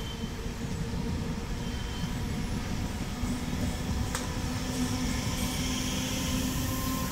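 Electric multiple-unit train running on the tracks, a steady low rumble of wheels on rail. A steady hum comes up about three seconds in, and there is one sharp click about a second later.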